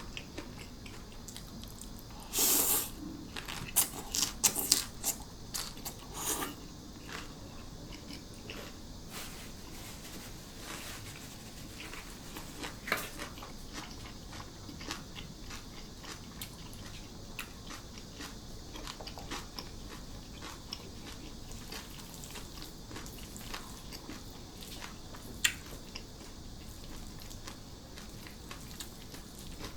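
Close-up eating sounds: crunchy bites and chewing. There is a loud crunch a couple of seconds in, a quick run of crisp crunches over the next few seconds, then a few scattered ones.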